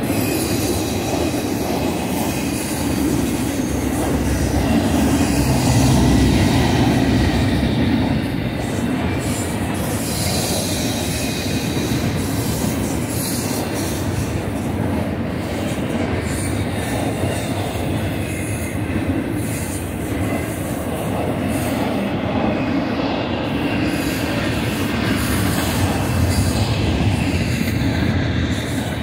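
Double-stack intermodal container cars of a freight train rolling past steadily, the wheels rumbling and clacking on the rails, with a faint high squeal from the wheels on the curve.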